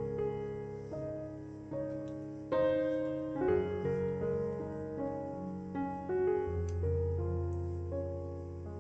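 Gentle background piano music, notes and chords struck one after another, a louder chord about two and a half seconds in.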